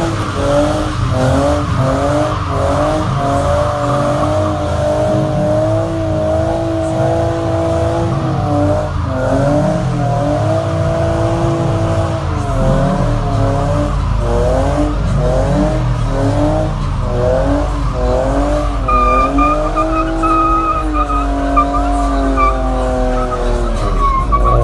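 Car doing a burnout: its engine is held at high revs that rise, hold and dip again and again while the tyres squeal. The squeal grows more piercing in the last few seconds.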